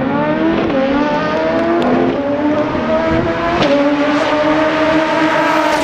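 Twin-turbo 2.7-litre V6 in a rear-wheel-drive Mk2 VW Golf accelerating hard down a drag strip. Its pitch climbs and drops sharply three times as it shifts up through the gears, with a sharp chirp at the third shift, then falls away as it comes off the throttle near the end.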